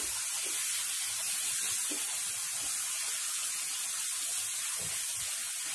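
Chopped vegetables sizzling steadily in a frying pan over a high flame while a spatula stirs them.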